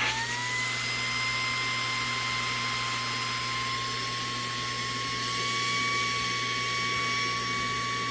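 Saker 3-in-1 mini vacuum's brushless motor running as an air pump, a steady high-pitched whine as it blows air into a hot tub cover's air bladder, its pitch edging up slightly about five seconds in.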